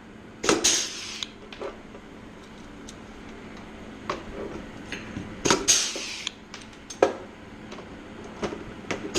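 A rivet puller setting blind rivets in a sheet-aluminium skin: a few sharp snaps several seconds apart as the rivets are pulled, each with a brief hiss after it, with lighter metal clicks of clecoes and rivets being handled in between.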